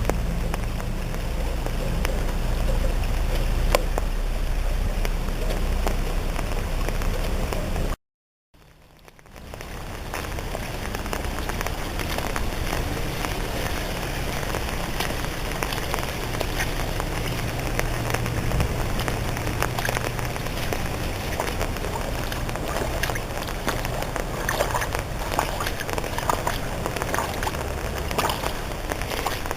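Water rushing and splashing after heavy rain, a steady dense wash of noise with many small drips and splashes in it. About eight seconds in it cuts out briefly and fades back in.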